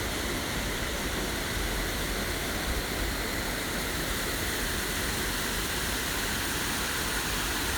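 Waterfall's rushing water, a steady even hiss with some low rumble underneath.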